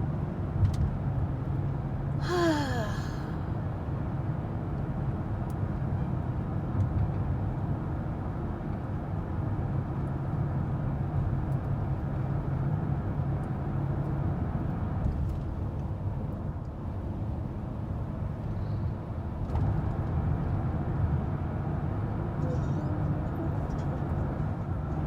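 Steady road and engine rumble heard from inside a car driving at speed. A brief falling tone about two seconds in.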